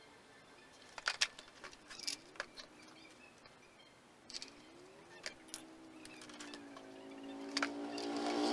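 A few sharp clicks and knocks scattered through a quiet stretch, then background music fading in over the last couple of seconds.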